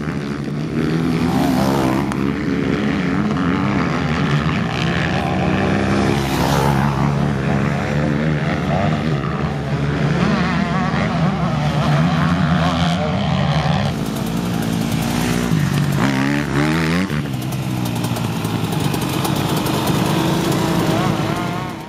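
Motocross bike engines running hard as they race, the pitch rising and falling continually with throttle and gear changes. The sound cuts off abruptly at the end.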